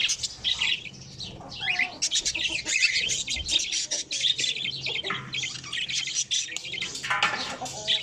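Caged aviary birds chirping and squawking, many short high calls overlapping in a steady chatter, with a brief lull about a second in.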